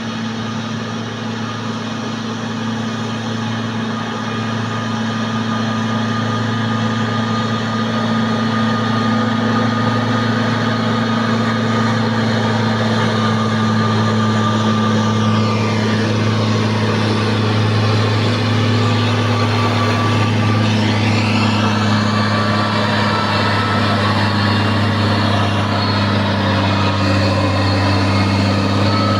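Old truck's engine running steadily with a deep, even hum that grows gradually louder over the first several seconds.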